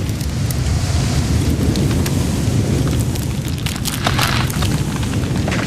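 Storm of high wind and heavy rain: a steady, heavy rumble of wind with rain hiss, with scattered sharp cracks and a brief louder rasping noise about four seconds in.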